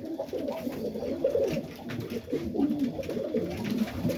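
Several domestic pigeons cooing at once in a loft, overlapping low warbling coos throughout.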